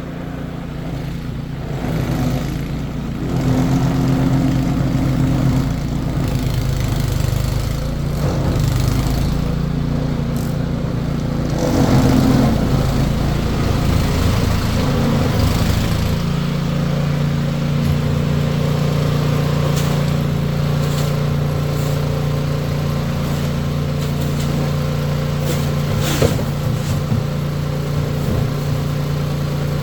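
Car engine running: its pitch and level shift as it revs over the first half, then it settles to a steady run. A short click comes near the end.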